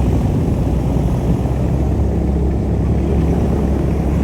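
Airboat's engine and air propeller running, a loud, steady low drone.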